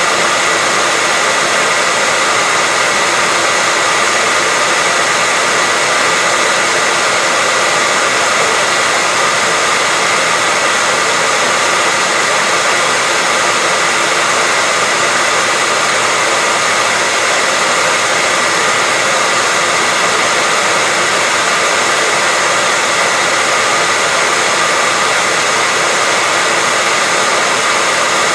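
Hair dryer running steadily: an even, unchanging airy hiss with a faint steady whine in it.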